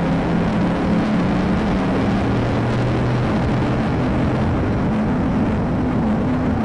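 Vehicle engine running hard at speed: a steady low drone whose pitch shifts up and down, over constant road and wind noise.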